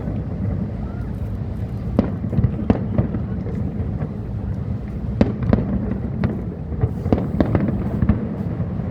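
Fireworks bursting overhead: scattered sharp bangs, a pair about two to three seconds in and a quick cluster from about five to eight seconds, over a steady low rumble.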